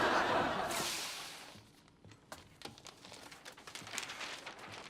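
Studio audience laughter fading out over the first second and a half, followed by faint scattered rustles and clicks.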